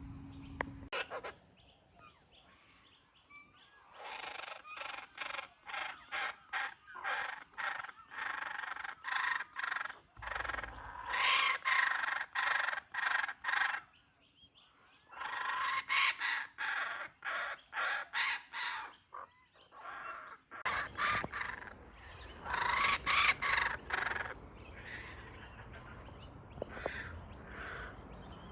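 Kookaburras calling in bouts of rapid, rhythmic notes that build to loud peaks and die away. There are three such bouts, each lasting several seconds, with quieter calling between them.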